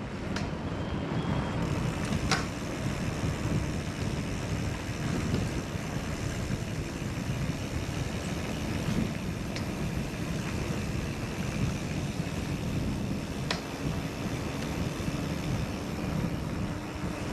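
Mountain bike riding a trail, heard from the rider's camera: a steady rumble of wind and tyres, with a few sharp clicks and knocks from the bike.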